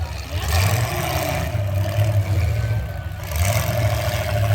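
Truck engine running, its revs swelling and easing every second or so.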